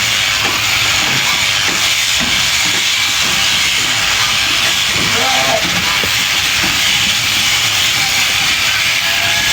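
Electric sheep shears running steadily with a loud, even hiss as they cut wool. A short pitched sound is heard about five seconds in.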